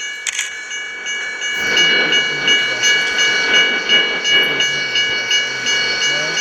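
Freight train led by a Dash 8 diesel locomotive passing, a low rumble swelling about a second and a half in. Over it a level-crossing warning bell rings about twice a second.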